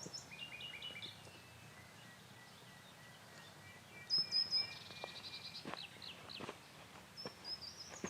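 Birds singing: quick runs of high chirping notes, a thin steady whistle, and a louder burst of high notes about four seconds in, with a few faint clicks.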